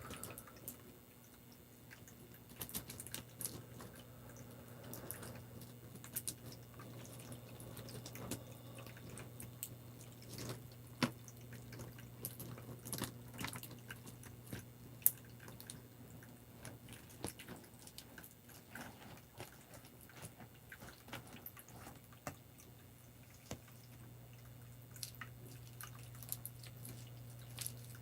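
Water dripping and trickling, with many irregular light clicks over a steady low hum.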